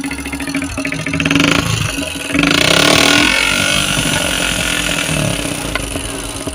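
Motorcycle engine with a modified silencer running, then revved once about two and a half seconds in, the exhaust note swelling into a loud rasp before settling back.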